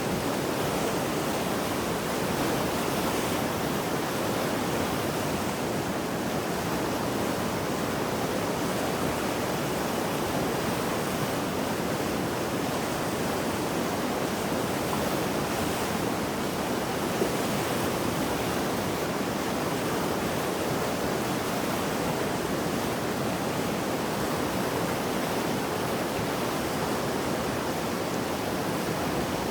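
Mountain river in spate after heavy rain and flooding: a steady, even rush of water.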